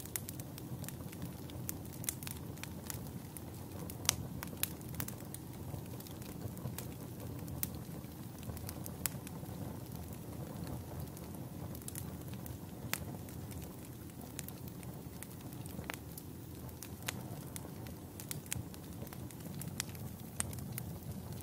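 Campfire burning with a steady low rush of flame and irregular sharp crackles and pops of burning wood, a few louder snaps among them.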